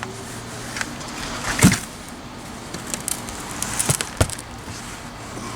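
Potting soil and potatoes dumped out of a container onto the ground: a rustling pour of dirt with a few thumps, the loudest about a second and a half in.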